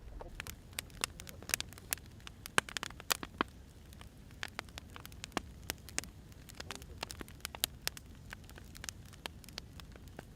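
Wood fire crackling, with irregular sharp snaps and pops over a low steady hiss.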